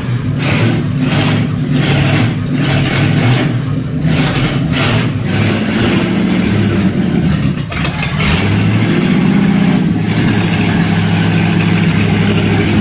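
Car engine running rough on a cold start, with a sharp pulse about twice a second through the first half. The revs lift a little about eight seconds in.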